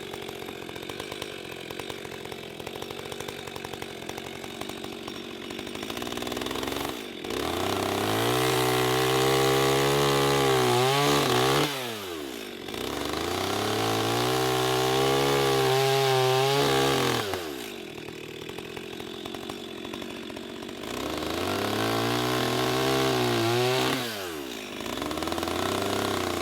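Two-stroke chainsaw idling, then opened up to full throttle three times as it cuts into wood, with a short rev near the end. Its pitch sags and wavers under load during each cut and drops back to idle between them.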